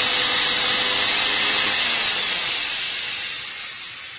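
Handheld 5-inch electric cutter's motor running at full speed with a loud whirring hiss. About halfway through it begins to wind down, fading gradually as it coasts to a stop.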